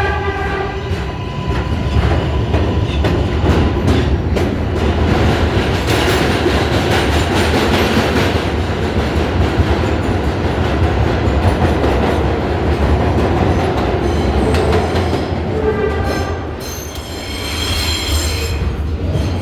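R142A subway train running on the rails: a steady heavy rumble with the clickety-clack of wheels over rail joints. A brief pitched whine comes at the start and again late on, and a high wheel squeal follows near the end.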